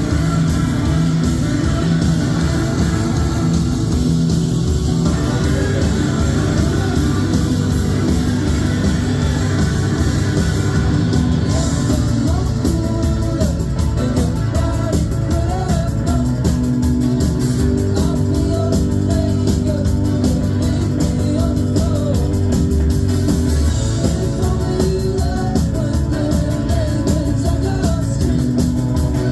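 Live rock band playing a song: electric guitars and drums keep a steady beat, with singing over it.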